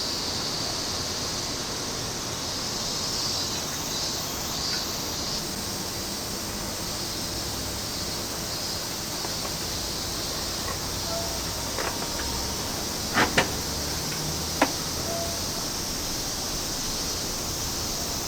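Steady background hiss with no engine running, broken by a few short sharp clicks about two-thirds of the way through.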